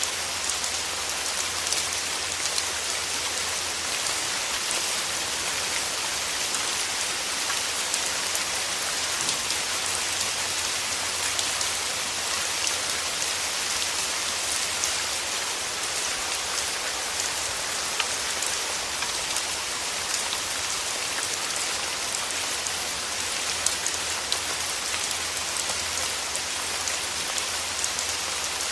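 Steady rain falling on rose petals and leaves, a dense, even patter of drops that holds without change.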